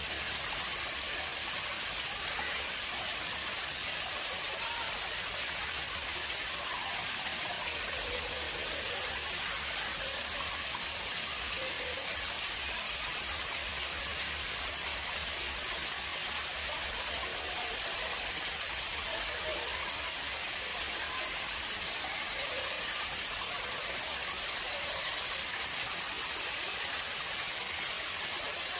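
Water flowing steadily into a man-made pond, an even, unbroken splashing hiss.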